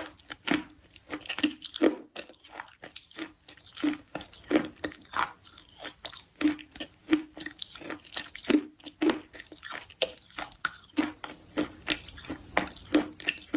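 Close-miked chewing of a soft but crunchy food: irregular sharp crunches, about one or two a second, with each bite giving a dull thud under the crackle.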